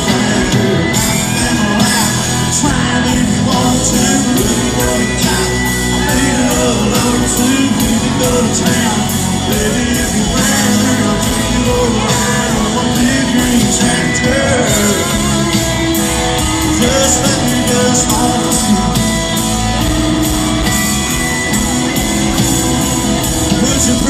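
Live country-rock band playing loudly with a lead singer, in the echo of a large hall, with shouts over the music.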